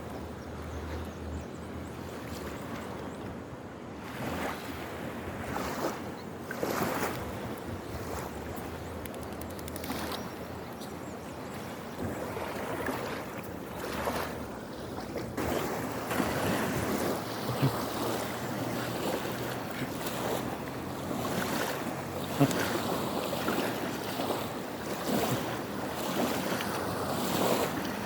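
Fast-flowing river water rushing and surging, swelling louder and softer irregularly and somewhat louder in the second half.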